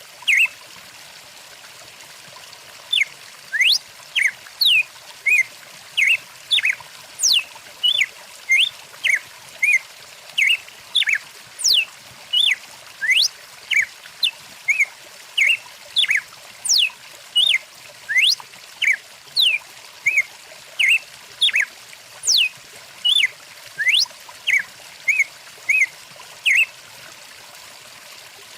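Birds chirping in a quick, irregular string of short notes and rising whistles over the steady rush of a flowing stream; the calls start a few seconds in and stop shortly before the end.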